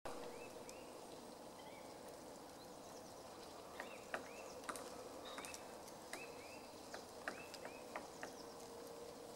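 Female black woodpecker pecking at wood: a run of irregular sharp taps starting about four seconds in. Small birds chirp short rising notes throughout, over a faint steady hum.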